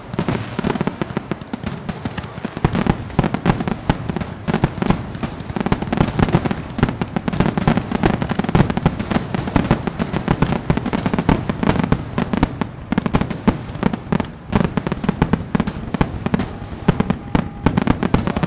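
A fireworks display: a continuous barrage of overlapping bangs and crackles, many each second, with no pause.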